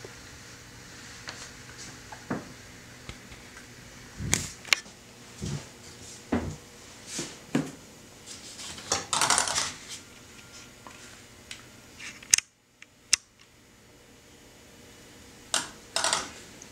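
Irregular clicks and knocks of small objects being handled, with a short rustling burst about nine seconds in.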